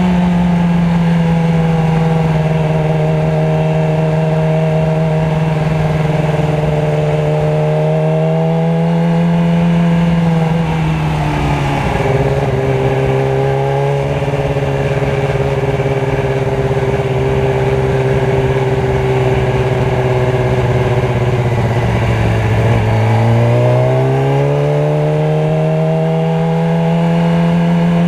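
Motorcycle engine running steadily in traffic. Its note drops about eleven seconds in and climbs back up again about twenty-three seconds in as the engine speed changes.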